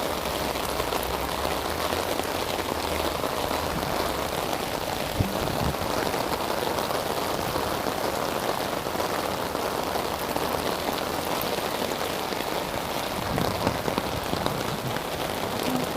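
Heavy rain pouring steadily, a dense even hiss of drops hitting the ground and surfaces, with a single knock about five seconds in.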